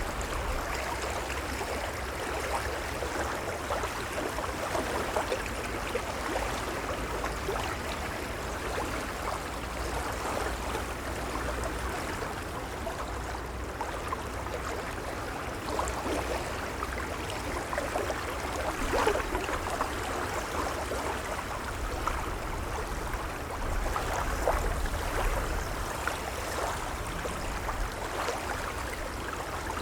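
Gentle waves lapping: a steady wash of water with many small splashes over a low rumble.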